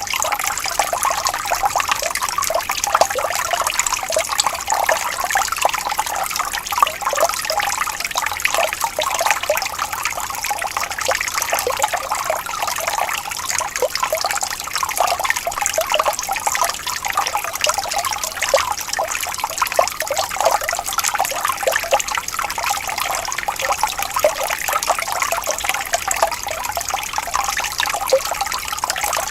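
Shallow stream of water trickling and burbling steadily over stones, a continuous babble of small splashes with no pauses.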